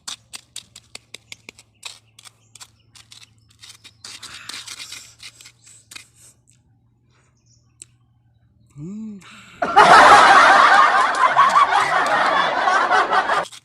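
Close-miked mouth sounds of chewing raw hagonoy leaves: a run of small crisp clicks and crunches. Near the end comes a short hum, then a loud rushing noise that lasts about four seconds and is the loudest thing heard.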